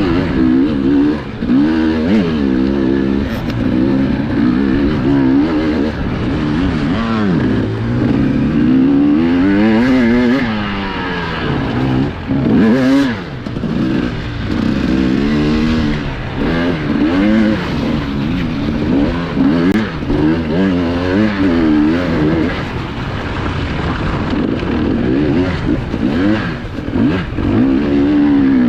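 Enduro motorcycle engine heard from on board while racing over rough terrain. The revs rise and fall constantly as the rider works the throttle and gears.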